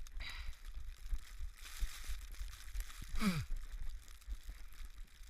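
Wind buffeting the camera microphone in a steady low rumble, with a rush of noise about two seconds in and a short groan that falls sharply in pitch about three seconds in.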